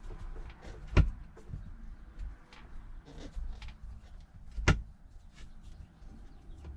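Hand work on a truck's shifter assembly: two sharp knocks about four seconds apart, with faint clicks and rustling between as parts and tools are handled.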